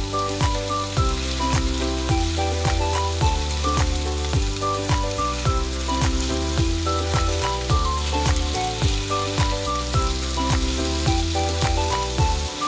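Chicken thigh pieces sizzling in oil as they are stirred with metal tongs in an enamelled cast-iron pan, under background music with a steady beat.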